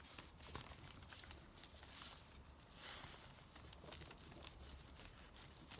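Near silence with faint rustling and crinkling of paper being handled and pressed down, and a few small ticks.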